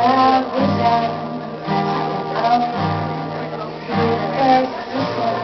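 Live band music: guitar and bass with a voice singing a wavering melody, the bass moving to a new note about once a second.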